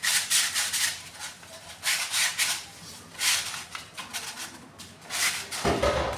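Sandpaper rubbed by hand back and forth over a water pump part, in several runs of quick rough strokes with short pauses between. A short low thud near the end.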